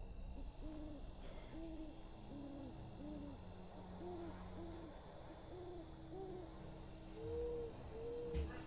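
Owls hooting: a run of short, rounded hoots at two pitches, about two a second, with a steady hum joining about six seconds in and a low thump near the end.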